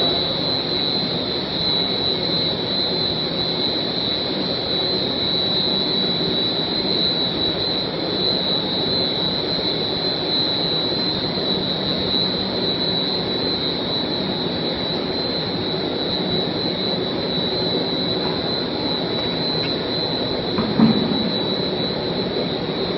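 PP/PE monofilament yarn making machine running: a steady machinery drone with a high-pitched whine over a low hum. A single short knock near the end.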